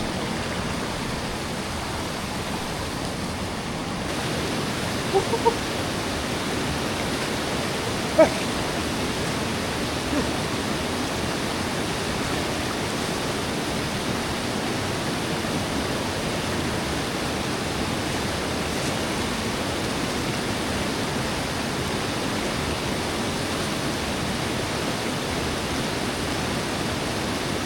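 Mountain river rushing steadily over rocks, a constant even wash of water noise. A couple of brief faint sounds come through about five and eight seconds in.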